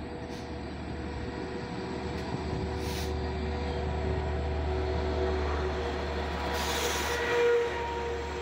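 Long Island Rail Road DE30AC diesel locomotive and bi-level coaches passing close by. A steady low engine drone runs under a thin, steady squeal from the wheels, with a short hiss about three seconds in and a longer, louder hiss near the end.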